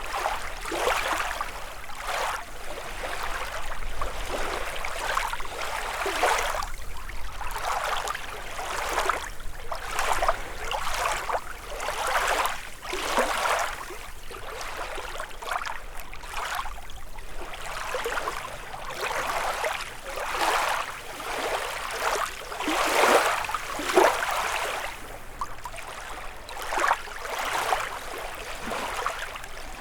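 Small lake waves lapping and splashing against the shore, one wash after another every second or two, the loudest a little past two-thirds of the way through.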